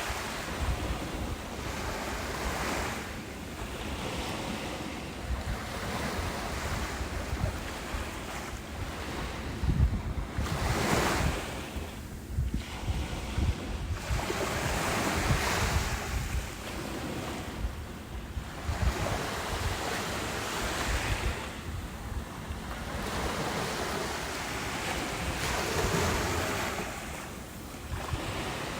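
Ocean waves breaking and washing up the beach, the surf swelling and falling back every few seconds. Wind buffets the microphone with a low rumble.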